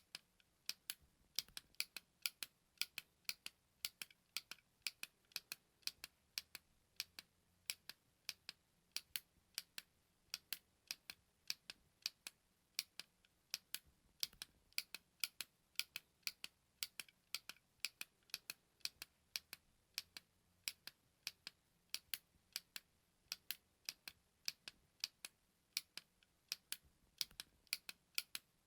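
Button clicking: short, sharp, high clicks repeated about two to three times a second at an uneven pace, some in quick pairs.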